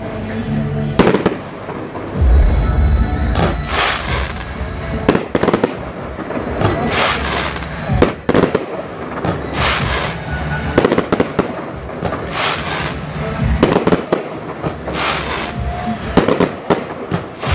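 Aerial fireworks display: a continuous barrage of shell bursts, about one or two bangs a second at irregular spacing, several followed by crackling tails.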